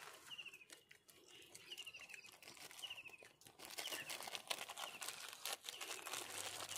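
A bird repeating a short, quick, falling trill about once every second, over scattered crinkling and crunching rustles that grow louder in the second half.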